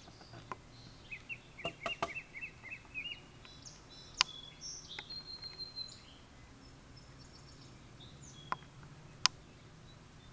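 Birds calling outdoors: a quick run of about a dozen chirps in the first few seconds, then scattered short high calls. Several sharp clicks stand out, the loudest about four seconds in and again near the end.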